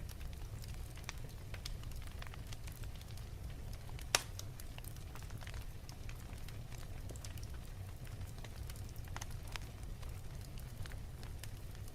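Wood fire crackling in a fireplace: scattered pops and snaps over a steady low rumble, with one louder pop about four seconds in.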